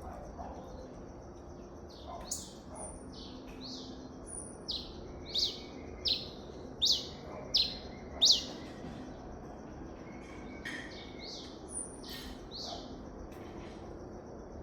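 A cravina songbird singing a phrase of about a dozen sharp, downward-slurred whistled notes, swelling to its loudest near the middle and trailing off toward the end.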